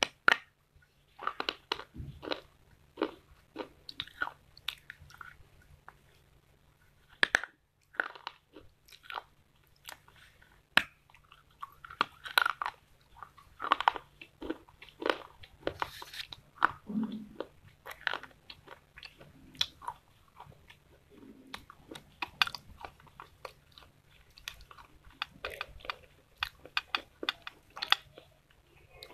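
Close-up crunching bites and chewing of hard dry clay: many sharp, irregular crunches, several a second, over a faint low hum.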